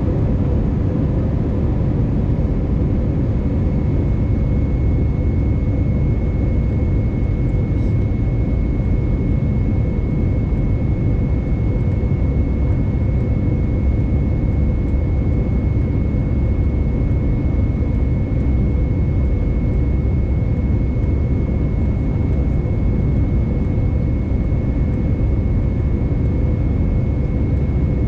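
Cabin noise inside an Airbus A320neo (A320-251N) with its CFM LEAP-1A engines running: a steady, unchanging rush of air and engine noise, heaviest in the low end, with a thin constant whine above it.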